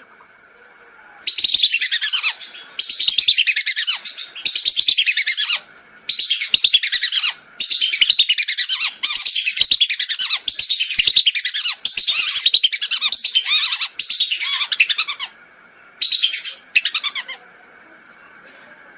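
Lesser whistling ducks calling: about a dozen bursts of rapid, high whistled notes that slide downward, each burst lasting a second or so with short gaps between. Two shorter bursts come near the end.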